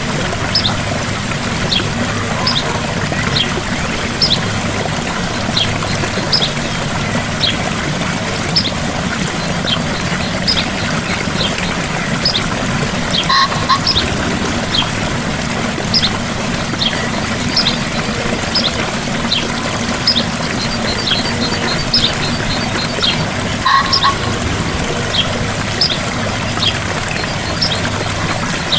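Gentle waterfall splashing steadily, with a bird giving short high chirps over it, one or two a second, a quick trill a little past two-thirds of the way in, and two lower calls, about halfway and near the end.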